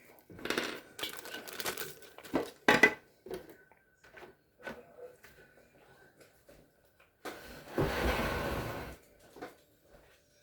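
Scattered small clicks, taps and rustling from hands handling parts and tools, with one sharper click about three seconds in and a longer rustle from about seven to nine seconds.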